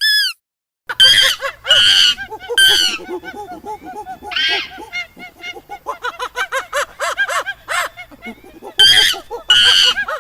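A flock of domestic fowl calling: loud honking calls over many quick, lower clucking calls. It starts with a single short high chirp and then about a second of silence.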